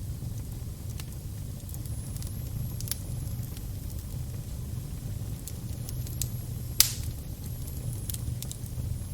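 Fire burning: a steady low rumble of flames with scattered sharp crackles and one loud pop about two-thirds of the way through.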